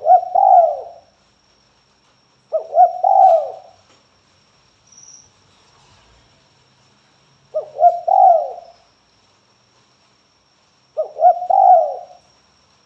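Spotted dove (tekukur) giving its calling coo: four short phrases, each about a second long, a few seconds apart.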